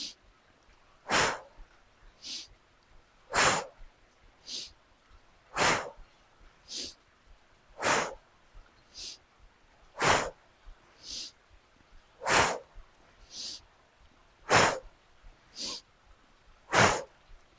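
A woman's heavy rhythmic breathing through a deadlift set, close on the microphone: a strong breath out about every two seconds, with a softer, hissy breath in between each. Eight strong breaths and seven soft ones, evenly paced with the lifts.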